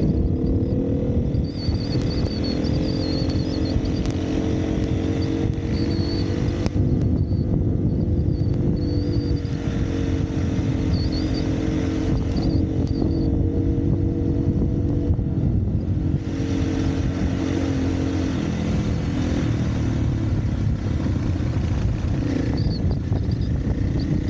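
Single-cylinder dirt bike engine running at a fairly steady part-throttle trail pace, its pitch rising and dipping only slightly, over a dense chatter of the bike on rough ground.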